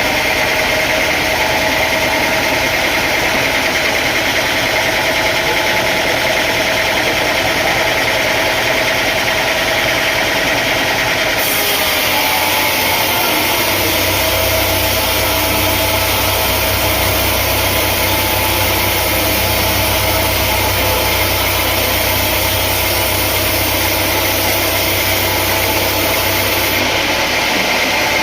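Sawmill machinery engine running steadily. A deep low hum joins about halfway through and drops away near the end.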